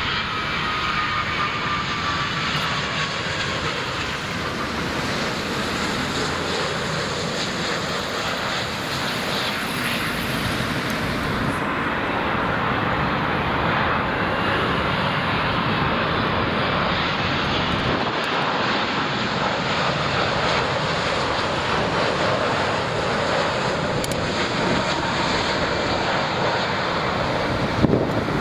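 Jet airliner's engines running loud and steady as it passes the airport, with a faint whine that slides in pitch.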